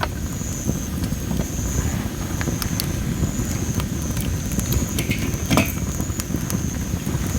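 Wood fire of well-dried masaki (Japanese spindle tree) firewood crackling: scattered sharp pops over a low steady rumble, the loudest pop a little past halfway.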